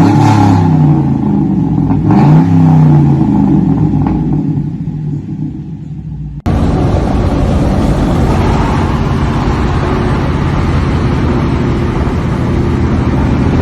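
Pickup truck engine with a loud exhaust revving up and back down twice, then fading away as the truck pulls off. About six seconds in there is an abrupt cut to another loud engine running steadily.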